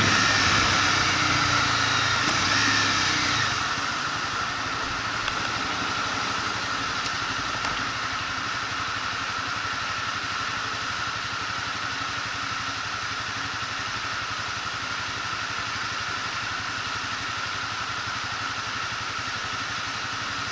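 Motorcycle engine running, with its note dropping and quietening about three seconds in, then idling steadily.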